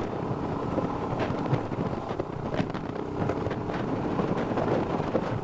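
Wind buffeting the microphone at steady road speed, over the even drone of a Royal Enfield Himalayan's single-cylinder engine held at constant throttle by a throttle lock.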